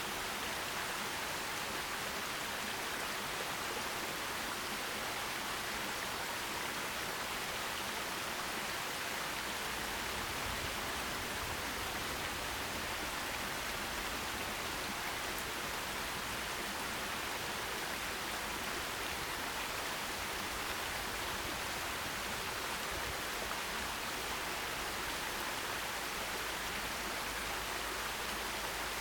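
Forest stream running steadily over rocks: an even, unbroken rush of water.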